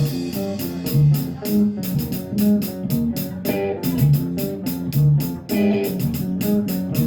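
A live rock band playing an instrumental passage: electric guitar and bass guitar over drums keeping a steady beat.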